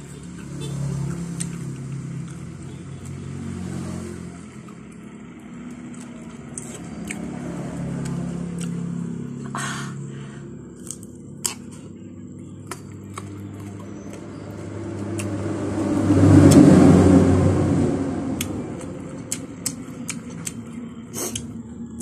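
Close-up eating sounds: biting into and chewing slices of ripe papaya, with sharp mouth clicks and smacks. A low rumble runs underneath, swells loudly about sixteen seconds in, then fades.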